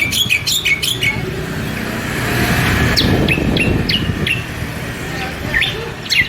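A small caged songbird chirping: a quick run of short repeated notes in the first second, then a handful of separate, sharply falling chirps. A swell of rushing noise rises and fades in the middle.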